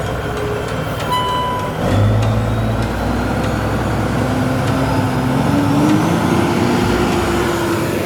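Truck engine running under load, its pitch climbing through the middle as it speeds up, with a short beep about a second in.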